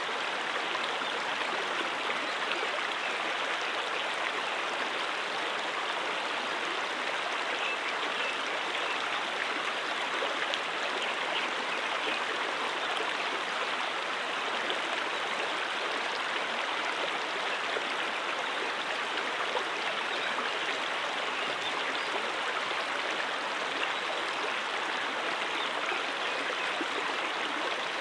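A mountain stream flowing steadily over rocks, a constant rushing and babbling of water with small splashes.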